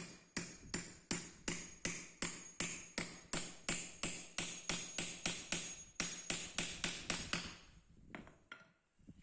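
Hammer blows struck steadily at about three a second, each with a brief metallic ring; the run of blows stops about seven and a half seconds in, followed by a few lighter taps.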